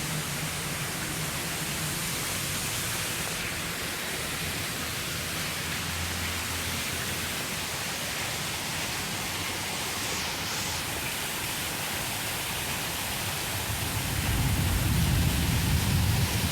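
Heavy rain pouring down in a steady hiss. Near the end a louder low rumble comes in for about two seconds.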